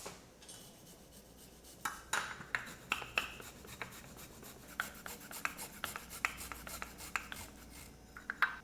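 A run of quick, irregular scraping strokes, starting about two seconds in and going on until near the end.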